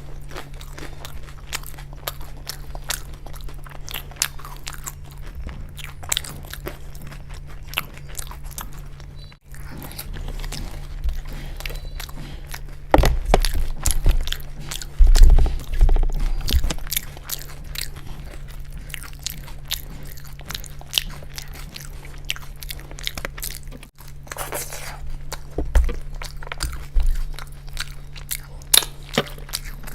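Close-miked eating: crisp fried food being bitten and crunched, with wet chewing in between, over a steady low hum. The heaviest, loudest bites come in a cluster about halfway through, with a few more some seconds later.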